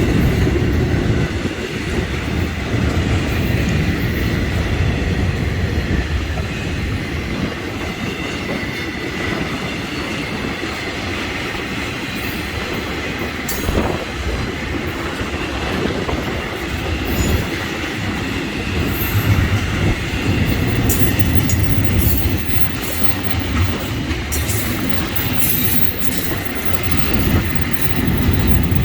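Florida East Coast Railway freight train's cars rolling past with a steady low rumble. Wheels click and clack over the rail joints, the clicks more frequent in the second half.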